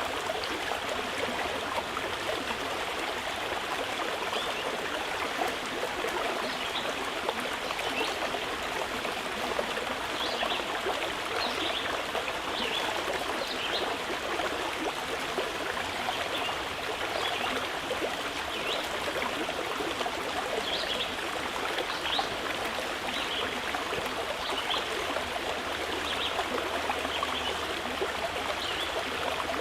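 Mountain river rushing and splashing steadily, with short high bird chirps scattered throughout.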